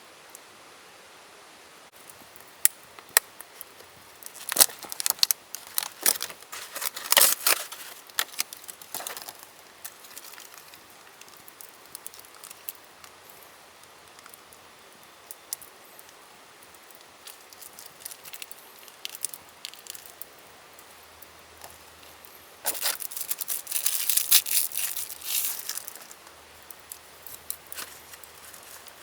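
Close-up handling noises: scattered sharp clicks and rustling crinkles, busiest in two stretches, about four to nine seconds in and again from about twenty-two to twenty-six seconds.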